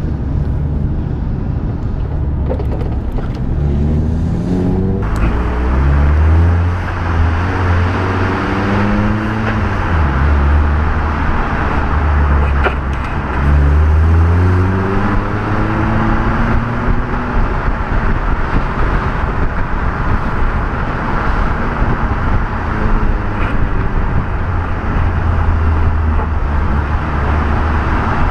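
Nissan 350Z's V6 engine pulling on a road drive. Its note rises and drops back several times in the first half, like upshifts, over steady road and tyre noise, then settles to a steady cruise.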